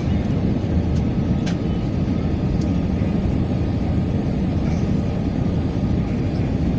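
Steady cabin noise of an Airbus A321 in flight: the low, even rumble of the engines and airflow heard from an economy seat.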